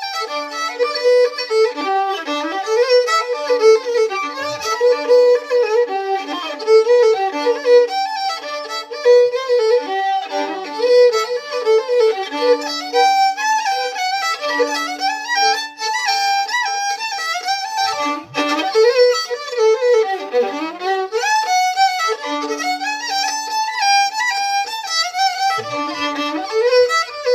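Fiddle playing a lively instrumental break, quick melodic runs over held lower notes.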